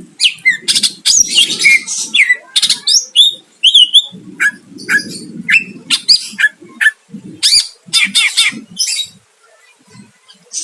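Greater green leafbird (cucak ijo) singing a fast, varied song of sharp chirps, whistles and quick up-and-down sweeps, thinning out to a short pause near the end.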